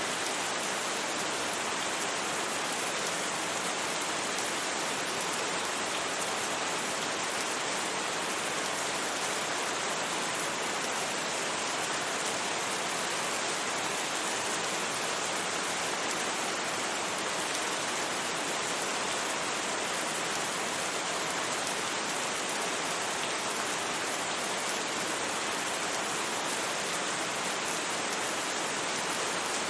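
Steady rain, an even hiss with no thunder and no single loud drops standing out.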